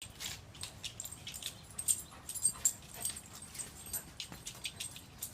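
A goldendoodle romping in wet mud and rain: an irregular run of short, sharp scuffling and splashing noises, several a second.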